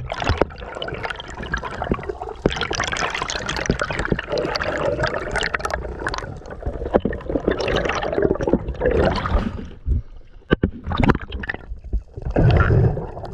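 Seawater sloshing and gurgling close to the microphone, with many sharp splashes and knocks; it thins out for a moment about ten seconds in.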